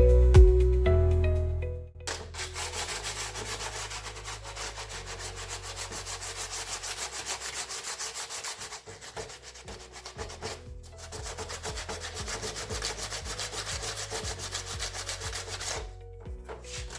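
Background music for about the first two seconds, then sandpaper rubbing over body filler on a metal exhaust heat shield in quick, even back-and-forth strokes that stop shortly before the end.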